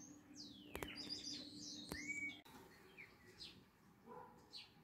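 Faint birds chirping: short rising whistles and twittering phrases, with two sharp clicks about one and two seconds in. A low steady hum cuts off abruptly about halfway through.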